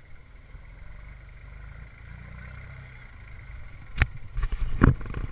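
Tractor engine running with a low steady rumble. About four seconds in comes a sharp knock, followed by a short burst of clattering.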